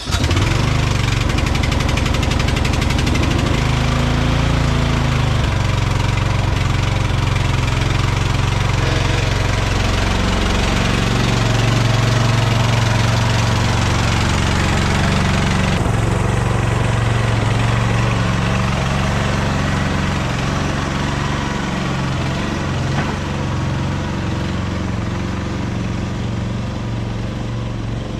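Lawn tractor's small gasoline engine running steadily on choke, having just caught after being cranked.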